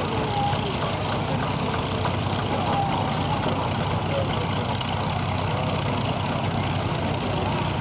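Steady low rumble of show engines running, with faint distant voices over it.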